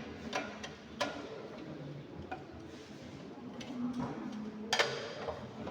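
Scattered light clicks and taps of metal hand tools and brake parts being handled during brake work, with a sharper knock about a second in and a few louder clicks near the end.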